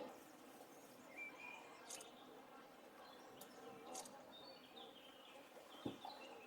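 Faint, scattered chirps of small birds over a quiet background, with a few soft clicks and a single low thump near the end.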